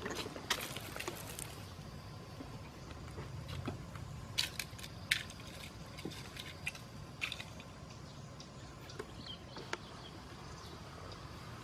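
Irregular sharp clicks and crackles, a quick cluster in the first second or so and then scattered single snaps, over a low steady background with a faint constant high tone.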